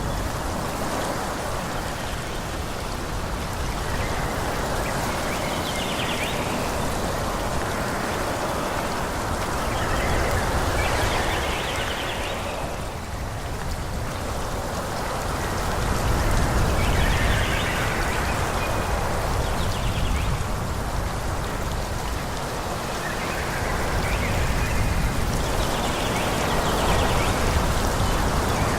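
Wind blowing through forest trees, a steady rustle of leaves and branches that swells and eases in gusts.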